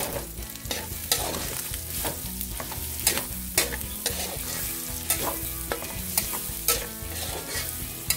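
Pork and sliced onions sizzling as they sauté in a wok, with a spatula knocking and scraping against the pan about once a second as it stirs.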